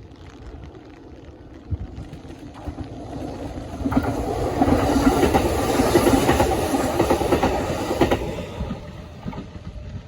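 A Kintetsu electric train passing by, building up over a couple of seconds, loudest in the middle, then fading away.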